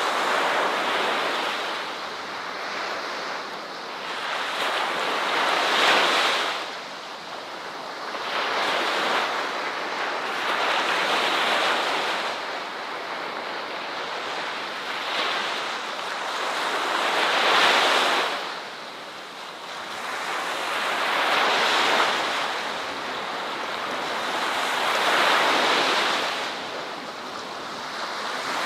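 Ocean surf: waves breaking and washing in, a rushing hiss that swells and falls back every four to six seconds.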